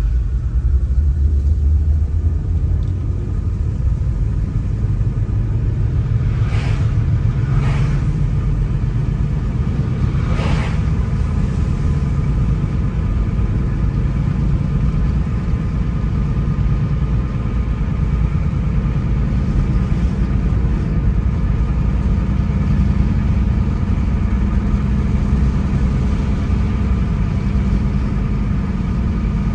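Car driving on a road: a steady low rumble of engine and tyres, with three short rushes of noise between about six and eleven seconds in.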